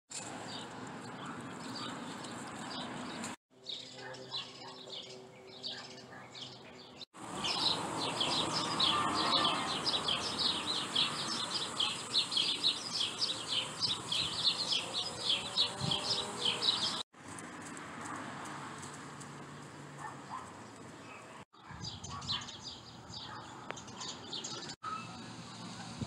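Small birds chirping and twittering outdoors, heard in several spliced recordings that cut in and out abruptly. The densest chatter, many quick chirps a second, fills the middle stretch. The other segments hold sparser chirps over a steady background.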